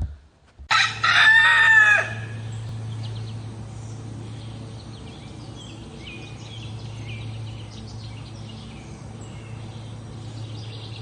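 A rooster crows once, about a second and a half long, its pitch dropping at the end. Afterwards there is a steady low hum with faint, scattered high chirps.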